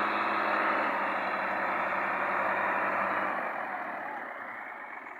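Tractor diesel engine running steadily, then fading away over the last second or two.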